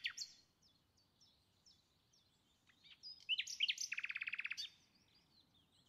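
Small birds chirping faintly, many short high calls, with a quick trill of evenly repeated notes a little past the middle.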